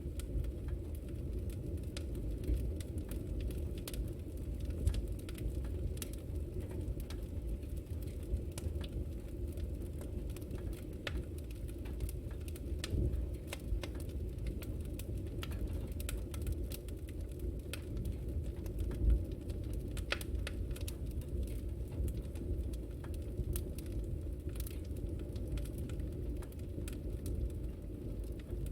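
Wood fire burning steadily with a low rumble and frequent small crackles and pops.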